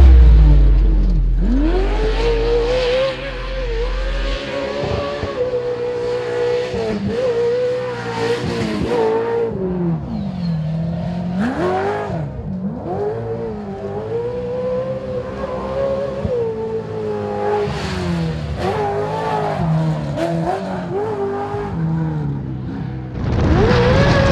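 Off-road race truck engine running hard around a dirt track, its pitch rising on the throttle and dropping as it lifts off several times. It is loudest in the first few seconds and sounds somewhat more distant after that.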